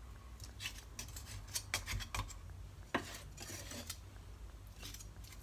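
Scattered light clicks and clinks of kitchen utensils against a pot and dish as pieces of veal shank are moved into the pot, with one sharper clink about three seconds in.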